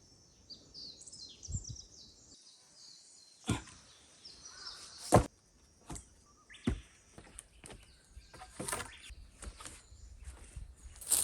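Sharp knocks and clatters of wood being handled and set down, the loudest about five seconds in, followed by lighter ticks. Small birds chirp during the first couple of seconds.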